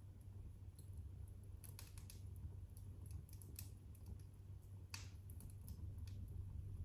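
Wood fire crackling in a fireplace: sparse, sharp pops and snaps, a cluster about two seconds in and the loudest single snap about five seconds in, over a low steady rumble.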